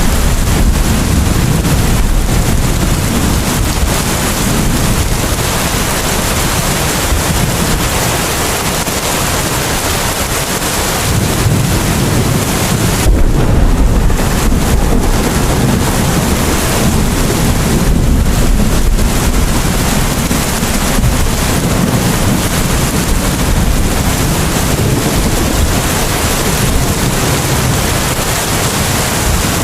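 Heavy rain falling steadily, a dense, even hiss with a low rumble underneath that swells and eases, strongest about 13 seconds in.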